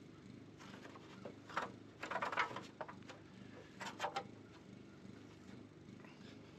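Honeybees buzzing in a low, steady hum. Over it, two short spells of crackling and clicking come from comb and frames being handled, one about a second in and another about four seconds in.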